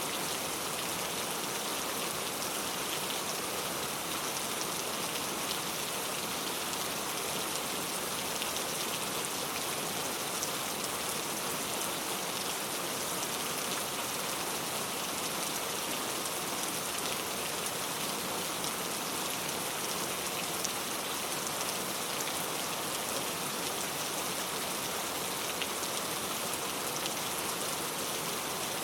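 Very heavy rain falling steadily, an even hiss of downpour with scattered individual drops standing out.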